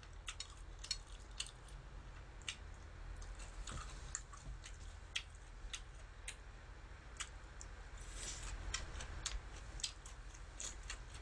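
Close-up chewing of dressed spinach salad: soft, irregular wet mouth clicks over a low steady hum.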